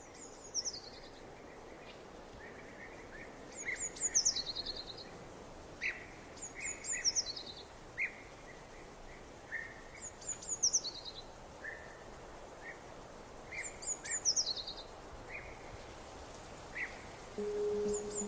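A songbird repeats a short, high phrase that falls in pitch about every three and a half seconds, with softer chirps in between, over a steady outdoor background hiss. A few held musical tones come in near the end.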